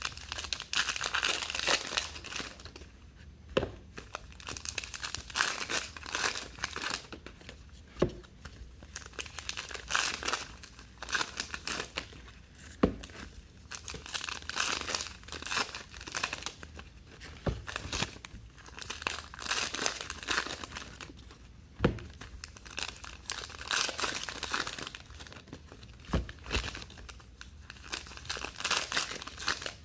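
Trading card pack wrappers being torn open and crinkled, one pack after another, in repeated spells of rustling. A sharp knock comes between them every four to five seconds.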